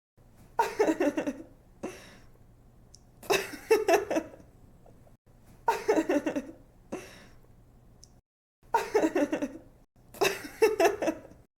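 A young woman laughing in five short bursts of quick giggles, each falling in pitch, about every two to three seconds.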